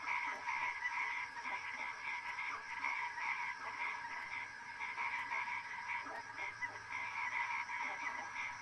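Frogs calling in a steady, continuous chorus.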